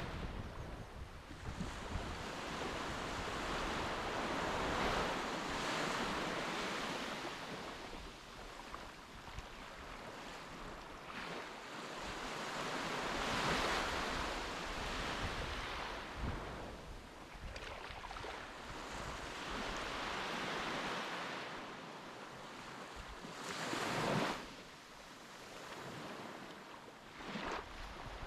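Sea waves washing, with wind buffeting the microphone. The noise swells and fades every few seconds, with a sharp gust near the end.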